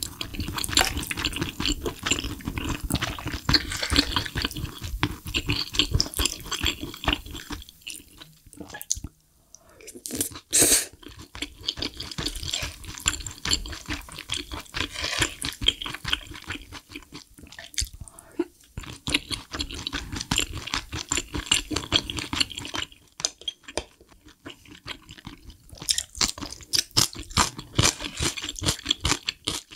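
Close-miked wet chewing and mouth sounds of someone eating spoonfuls of soft-tofu mapo tofu and shrimp fried rice, in stretches broken by short pauses about nine seconds in and again around twenty-four seconds. A brief sharper sound stands out about ten seconds in.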